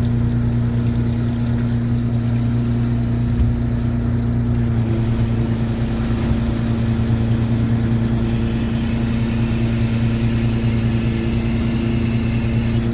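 Fishing boat's engine running steadily under way, a constant low hum.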